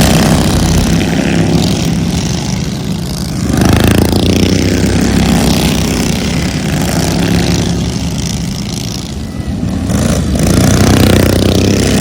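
Engine noise from motor vehicles that swells and fades about four times, as if they pass close by one after another.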